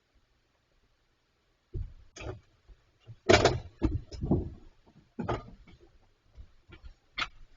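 A fridge being knocked and shoved around by bears: a run of irregular thumps and knocks, the loudest about three and a half seconds in.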